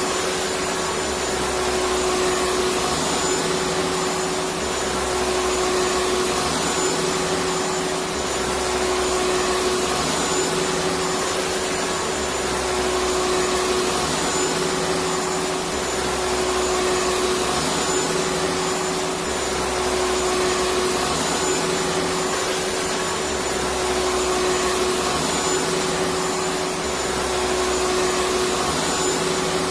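Electric vacuum cleaner running steadily: a continuous hiss with a steady whine, and a low hum that swells and eases about every two seconds.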